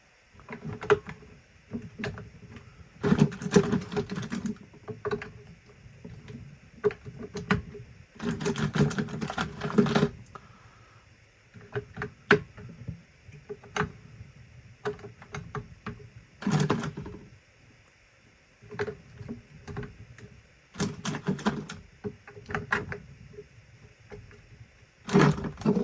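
Hard plastic parts being handled: irregular sharp clicks and several short bursts of rattling clatter.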